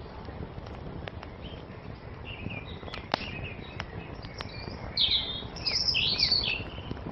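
Songbirds chirping and singing in short warbling phrases, loudest about five to six and a half seconds in, over the scattered sharp pops and crackles of a wood fire.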